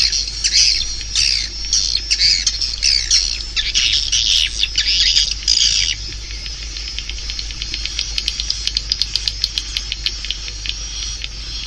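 Swiftlet call recording of the kind used to lure swiftlets to a nesting house: dense, high twittering chirps for about six seconds, then a fast run of dry clicks.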